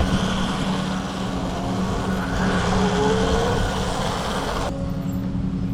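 Riding noise from an electric dirt bike in traffic: a steady rush of wind and road noise over a low steady hum, with a brief gliding whine partway through. The hiss drops off abruptly shortly before the end.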